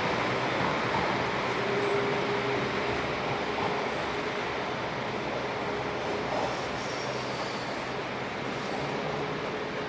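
A train running at a station platform: a steady rumble and hum that slowly fades, with a few short high squeals in the second half.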